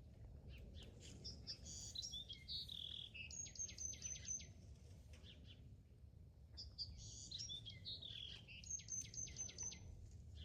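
A songbird singing the same phrase twice, a few seconds apart: a quick jumble of chirps ending in a fast run of high, even notes. A low steady rumble lies underneath.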